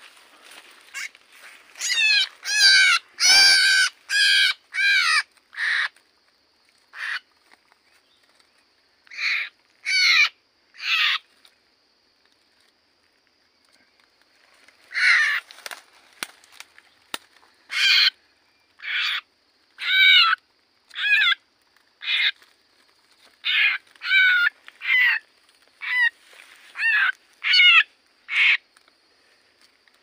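A small bird caught on a bamboo glue-trap stick gives harsh, repeated squawking distress calls, each under half a second, in bouts with a pause of a few seconds midway. A faint steady high tone runs behind the calls from a few seconds in.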